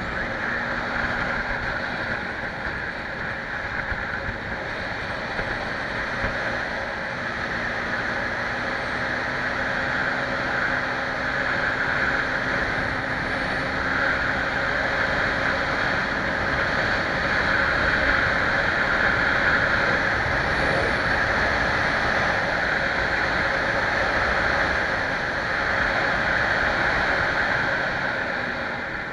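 Scania 111 truck driving at a steady speed, its diesel engine and road and wind noise heard from inside the cab as one even rumble and rush.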